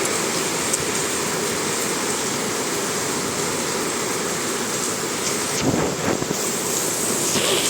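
Heavy rain pouring down in a steady, even hiss, with a brief bump about six seconds in.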